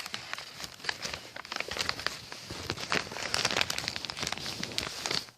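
A sheet of paper being folded and creased by hand, with a string of irregular crinkles and crackles that stops near the end.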